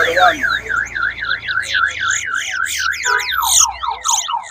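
Towa towa seed finch singing at full volume: a fast run of rising-and-falling whistled notes, about four a second. About three seconds in, the song changes to a quick series of falling notes. This is a singing-race bird delivering one counted song.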